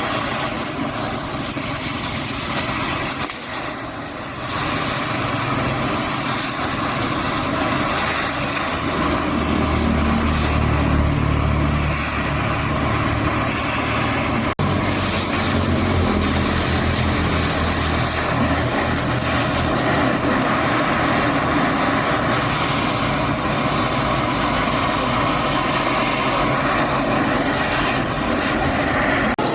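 An engine running steadily, with a constant hiss over it; the engine's low hum grows stronger partway through.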